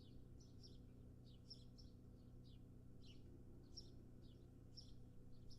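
Faint, short chirps from a small bird, repeating about twice a second, over a low steady hum.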